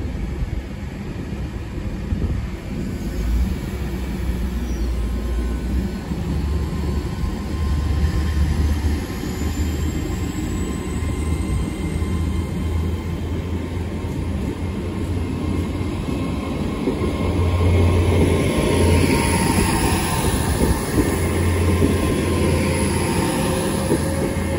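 Two coupled Hitachi Class 802 bi-mode units passing slowly through the platform, running on their underfloor diesel engines: a steady engine throb under the rumble of wheels on rail, swelling in the middle of the pass as a power car goes by.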